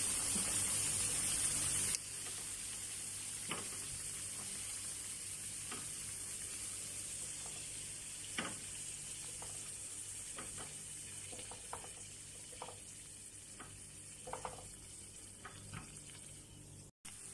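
Potato chunks frying in hot oil in a pan: a steady sizzle that drops suddenly about two seconds in, then slowly grows quieter. Scattered light clicks of metal tongs against the pan as the browned pieces are lifted out.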